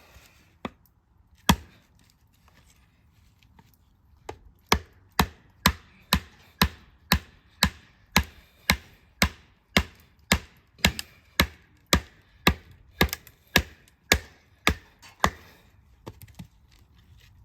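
Knife chopping on a cutting board: a few scattered knocks, then a long, even run of sharp chops at about two a second that stops a couple of seconds before the end.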